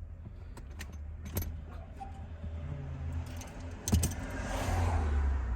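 Small metal parts and hardware clinking and rattling as the rear seatbelt is refitted in the car, with a sharp knock about four seconds in followed by rustling.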